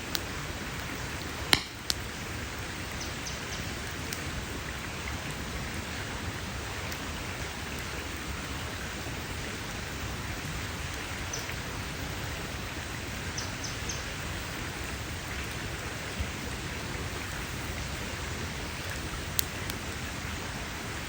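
Campfire burning with a steady crackling hiss. Sharp pops come about a second and a half in and again near the end.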